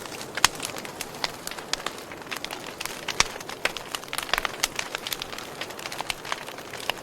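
Wood fire burning, crackling and popping irregularly over a steady hiss, with a few sharper pops standing out, one about half a second in and another about three seconds in.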